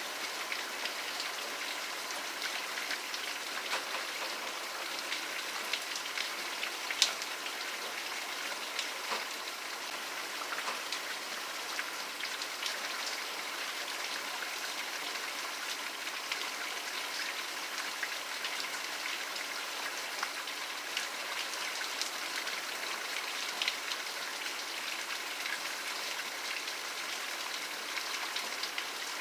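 Steady rain falling, an even hiss with many distinct close drops heard as small ticks over it; one drop lands noticeably louder about seven seconds in.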